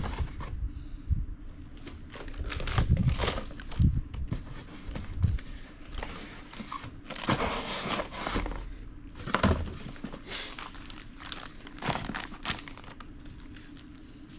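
Plastic packaging crinkling as bagged engine parts are handled and packed into a cardboard box, with a few dull knocks of parts set down.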